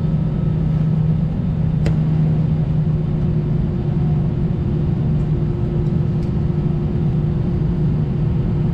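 Steady cabin drone of an Airbus A320 with its engines idling at the start of taxi: a low hum carrying a steady tone. A single sharp click about two seconds in.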